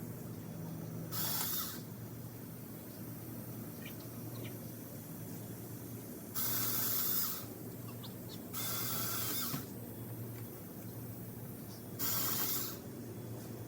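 Mini electric chainsaw run in four short bursts, each under a second, with pauses of a few seconds between them.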